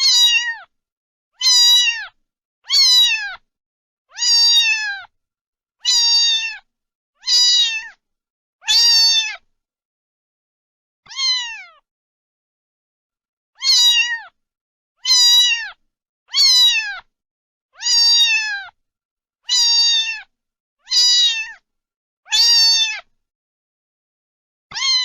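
A cat meowing over and over, about fifteen short high-pitched meows roughly one every second and a half, each dropping in pitch at its end, with a longer pause and one softer meow near the middle.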